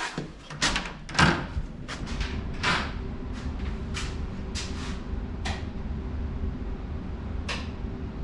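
A loud knock about a second in, followed by scattered lighter clicks and knocks, over a steady low hum that starts right after that knock.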